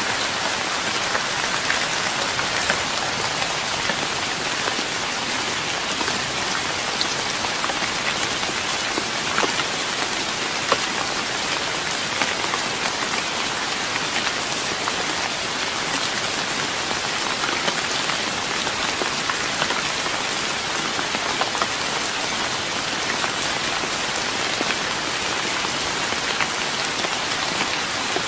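Steady rain falling on a wooden deck, a dense patter of many small drops.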